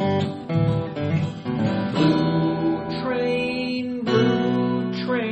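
Acoustic guitar strumming the chords of a bluegrass song in an instrumental passage without lead vocal.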